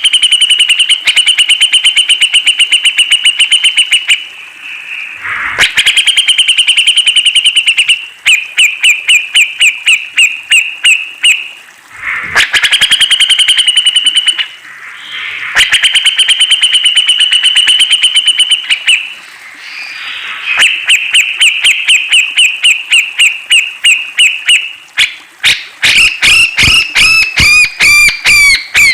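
Cucak jenggot (brown-cheeked bulbul) singing loudly in long, rapid trills of repeated notes, each run lasting a few seconds with short pauses between. Near the end the notes turn more varied and complex.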